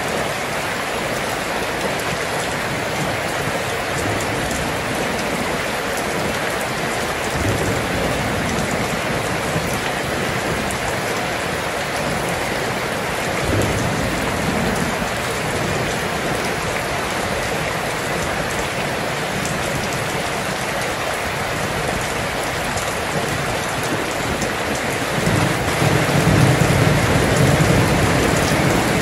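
Steady rain pattering onto a wet road and puddles. Low rumbles of thunder rise under it about a quarter and about halfway in, and a longer, louder roll comes near the end.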